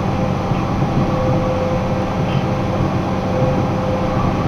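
Box truck driving along: steady engine drone and road noise, with a constant hum.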